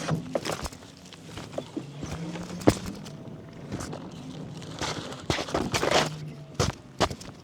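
A bicycle being ridden over a rough lane, its frame and parts giving irregular clicks, knocks and rattles, with a denser rattle about five to six seconds in. A low steady hum runs underneath.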